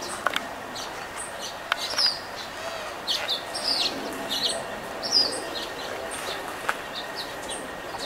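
Small birds chirping: short, high, down-slurred chirps coming several times a second in an irregular scatter.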